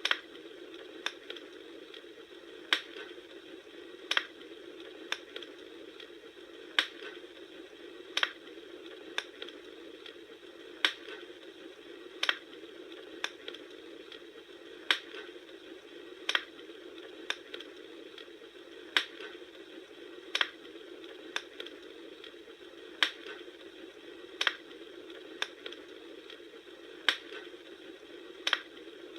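Bonfire crackling: sharp pops about once a second over a steady hiss, in a pattern of three pops that repeats every four seconds or so.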